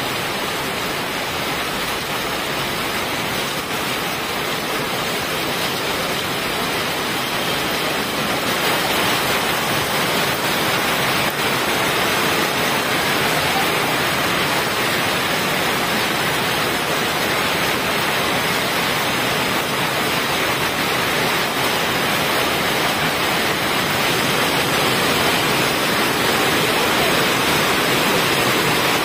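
Heavy rain pouring down steadily, a dense even hiss that swells a little about eight seconds in.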